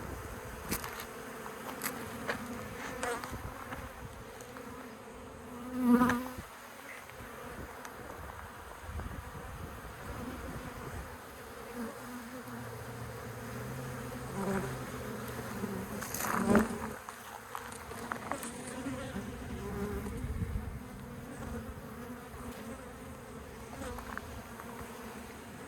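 Honeybees buzzing steadily around their colony, with two louder, closer buzzes about six and sixteen seconds in as single bees fly close by.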